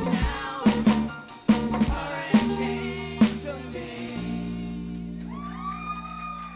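A live rocksteady band ending a song: drums and the band hit a run of accented beats together, then a final chord is held and rings out for the last few seconds. A voice holds a bending sung note near the end.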